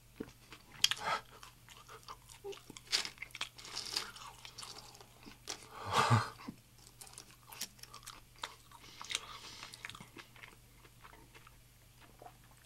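A man chewing and crunching crisp food with his mouth close to the microphone: irregular crackling crunches and wet chewing, with one louder burst about six seconds in.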